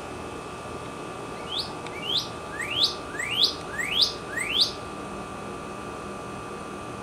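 Northern cardinal singing one phrase of six rising, slurred whistles, about two a second, the first two short and the last four louder and longer. It is a spring song, the bird calling for a mate.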